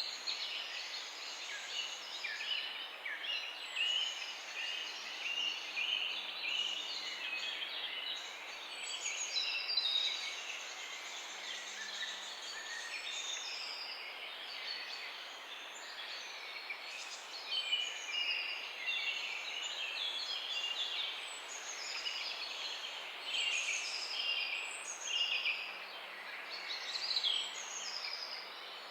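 Many birds chirping and singing together in a morning chorus: short, overlapping high calls and trills, over a faint steady hiss.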